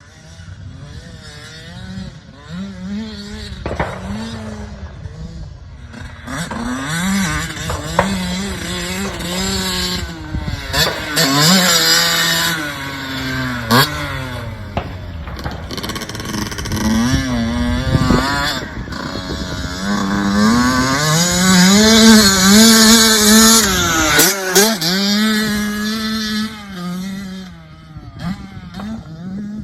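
Motocross dirt bike engine being ridden, its revs rising and falling again and again as the throttle is opened and closed, loudest about three-quarters of the way through.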